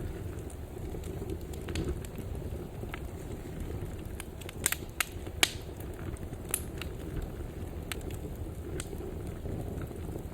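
Wood fire burning in a fireplace: a steady low rumble of flames with scattered crackles, and three sharp, loud pops close together about halfway through.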